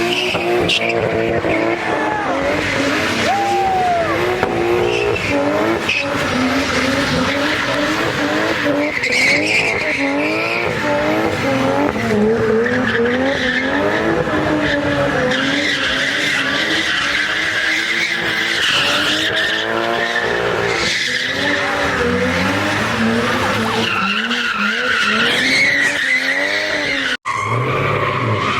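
Car engines revving up and down over and over while tyres squeal and skid, as cars spin donuts or do burnouts.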